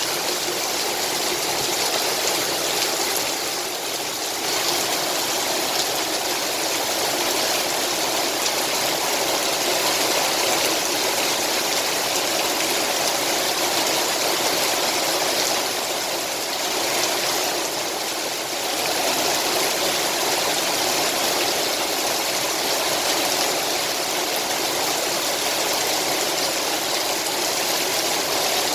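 Heavy rain falling in a steady downpour, easing slightly about four seconds in and again around seventeen seconds.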